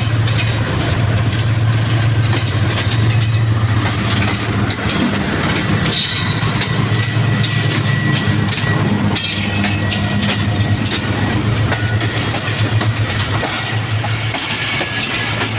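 Train running on the rails: a steady low diesel locomotive hum, with wheels clicking over the rail joints. The locomotive is likely a Pakistan Railways GEU40 diesel-electric.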